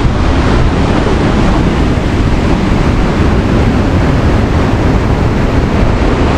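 Steady rushing of wind buffeting the microphone, heaviest in the low end, with the wash of surf on a beach mixed in.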